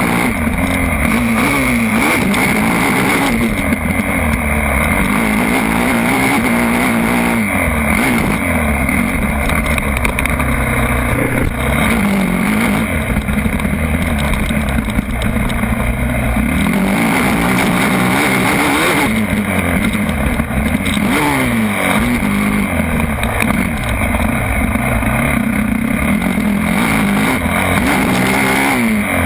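Motocross bike engine revving hard, its pitch climbing and dropping again and again as the bike accelerates and backs off.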